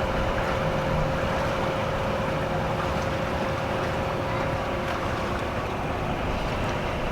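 A sailing yacht's engine running steadily while motoring, mixed with wind and water noise.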